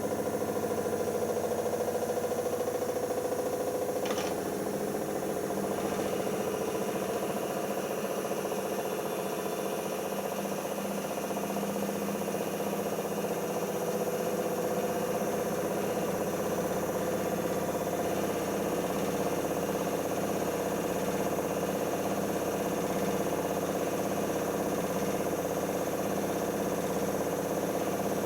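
Siemens iQ front-loading washing machine spinning its drum after the first rinse: a steady motor hum with a faint click about four seconds in.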